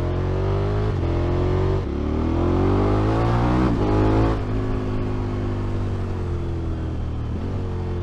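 KTM motorcycle engine pulling hard, its revs climbing, dropping at an upshift a little under two seconds in, and climbing again. A little after four seconds in the throttle closes and the revs fall away and stay lower.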